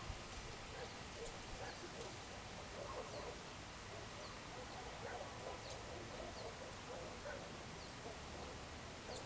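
Faint evening bird chorus outdoors: many short chirps and calls overlapping, some low and some high, repeating every second or so over a soft background hiss.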